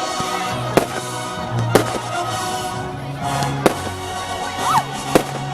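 Fireworks display finale: four sharp, loud firework bangs about one to two seconds apart, over music with sustained notes.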